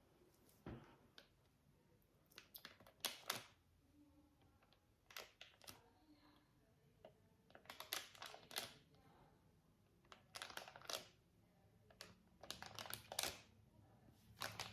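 Close-miked ASMR handling sounds: short clusters of sharp clicks and taps, with a little crinkling, recurring every one to two seconds as hands work a sensory toy.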